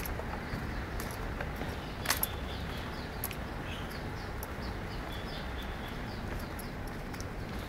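Small birds chirping in many short falling notes over a steady low rumble of background noise, with scattered clicks; the loudest click is about two seconds in.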